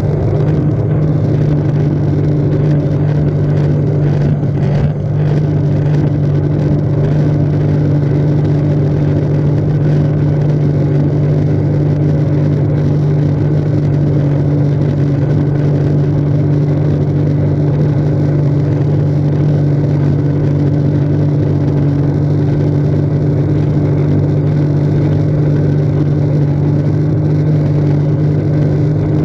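Jet ski engine running steadily at a constant pitch, with a brief dip in level about five seconds in.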